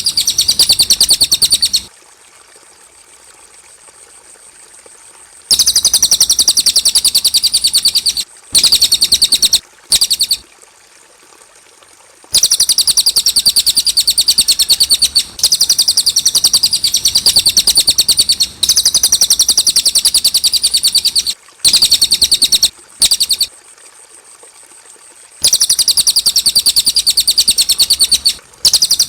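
Cililin songbird singing long bouts of fast, high, rapidly repeated chattering notes, broken by a few pauses of a few seconds.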